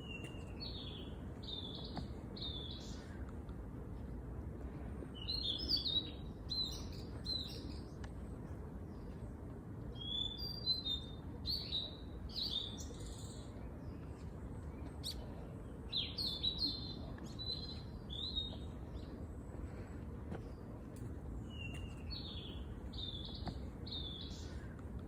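A songbird singing short phrases of quick chirping notes, one phrase about every five seconds, over a steady low background rumble.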